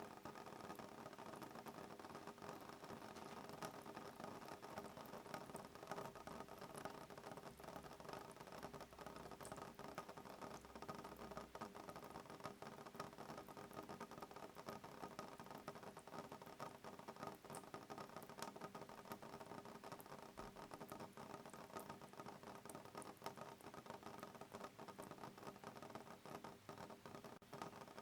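Soft rain pattering on a window pane: a steady, faint patter of many small drops, with no thunder.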